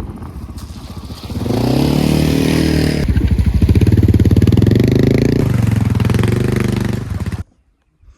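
Honda XR650L's air-cooled single-cylinder four-stroke engine running at low revs, then accelerating hard about a second and a half in and pulling loudly at steady high revs, until the sound cuts off suddenly near the end.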